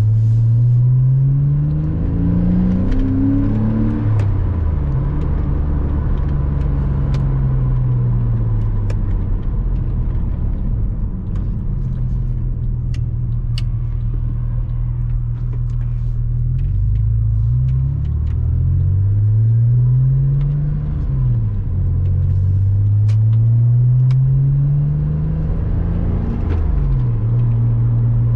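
Porsche Boxster 986 flat-six engine driving along. Its pitch climbs under acceleration and drops sharply at each upshift, about four times, with a long stretch of steady cruising in the middle.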